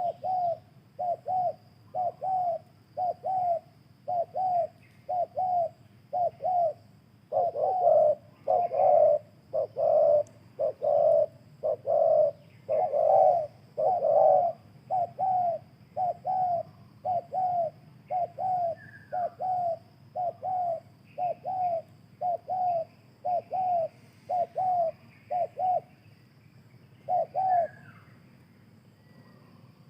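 Spotted doves cooing: a steady run of short repeated coo phrases, about one a second, that stops a couple of seconds before the end, with faint small-bird chirps behind.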